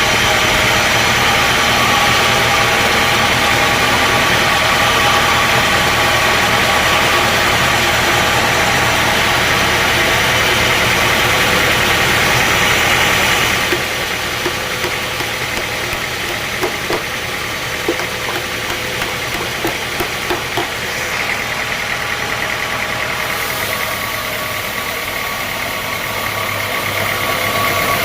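Sawmill machinery running steadily with a loud mechanical hum. About halfway through it drops a little quieter, a string of light knocks follows, and it builds again near the end.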